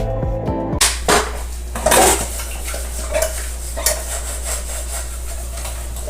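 Dishes and cutlery clattering and clinking in irregular knocks, as in washing up, over a steady low hum. Piano music cuts off just under a second in.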